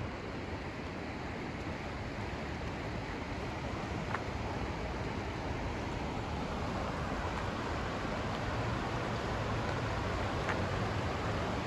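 Steady pink-noise hiss: an even rushing sound with no pitch or rhythm that swells slightly over the seconds, with a couple of faint brief ticks.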